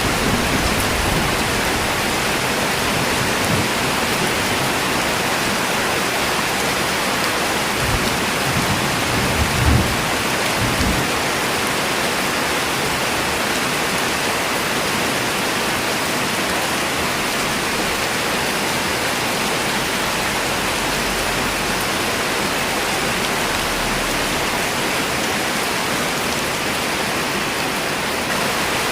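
Steady, heavy rain falling in an even hiss, with a few brief low rumbles about eight to ten seconds in.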